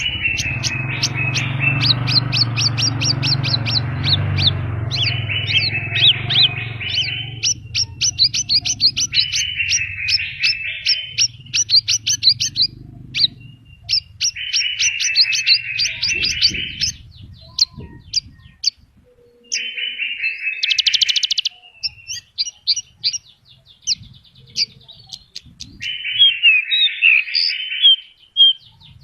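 Horsfield's bush lark (branjangan) in full song, its song packed with mimicked phrases: fast runs of sharp high chirps alternate with buzzy trilled phrases every few seconds. A low rumble sits under the first few seconds.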